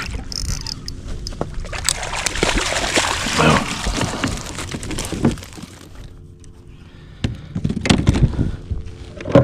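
Water splashing and sloshing around a fishing kayak, loudest for a few seconds in the middle, with a cluster of short knocks and splashes near the end.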